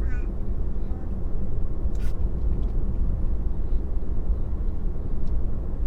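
Steady low road and tyre rumble heard inside a Tesla's cabin while it drives, with one sharp click about two seconds in.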